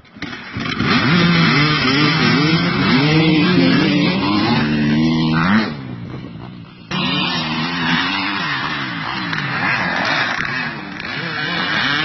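Several motocross motorcycle engines revving at once, their overlapping pitches rising and falling as the riders work the throttles. The sound falls away about six seconds in and comes back abruptly a second later.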